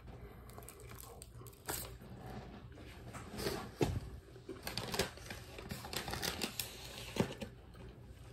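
A person chewing a big mouthful of Philly cheesesteak sub, with scattered wet mouth clicks and a few short crinkling rustles.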